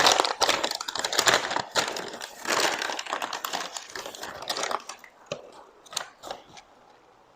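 Close-miked crinkling and crushing, dense and continuous for about five seconds, then thinning to a few scattered soft clicks.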